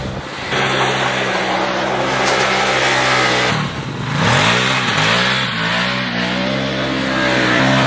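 Can-Am Maverick Sport XMR side-by-side's V-twin engine running and being revved: it dips a little over three seconds in, then climbs in pitch and holds a higher steady note.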